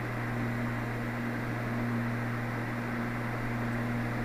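Steady drone of a twin-engine Cessna's engines and propellers in flight, heard through a small microphone inside the pilot's headset: a constant low hum with a steady tone above it and a hiss, unchanging throughout.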